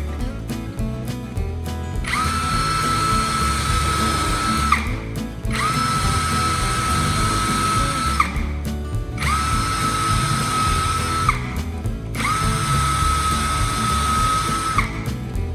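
Electric drill motor run in four bursts of about two and a half seconds each: it spins up to a steady whine, holds, and stops, with short clicking pauses between runs. Background music plays underneath.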